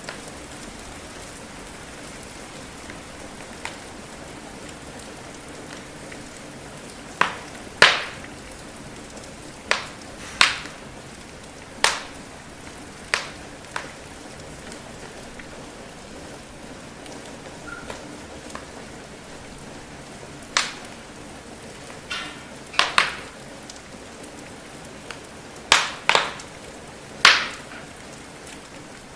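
Steady rain with a wood fire crackling over it: irregular sharp pops, a dozen or more, some in quick pairs, the loudest about eight seconds in and near the end.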